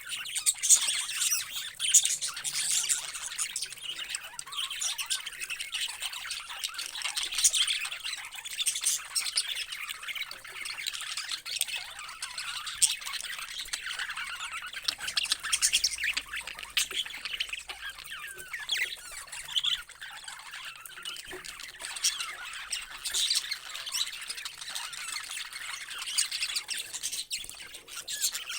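A flock of parrots squawking and chirping continuously, many short sharp calls overlapping.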